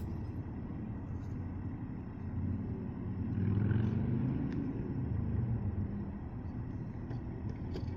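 Low rumble of street traffic, swelling about halfway through as a vehicle goes by.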